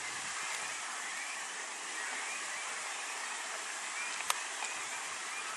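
Steady outdoor hiss with faint, distant bird chirps scattered through it, and a single sharp click about four seconds in.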